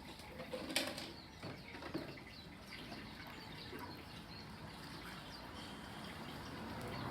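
Small birds chirping in the background, with a few soft clicks or rustles in the first two seconds and a steady background noise growing louder near the end.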